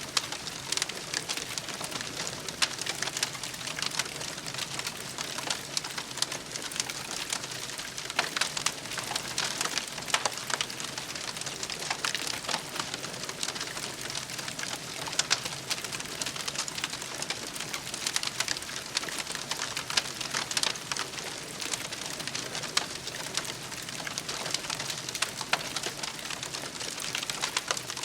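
Wood campfire burning with a steady hiss and a constant scatter of small sharp crackles and pops.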